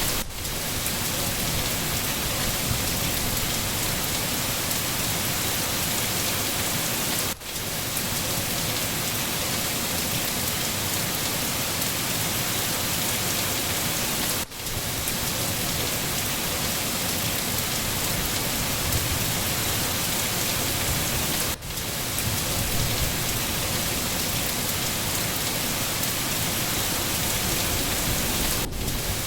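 Steady, heavy rain falling as an even hiss, with brief dropouts about every seven seconds, four times in all.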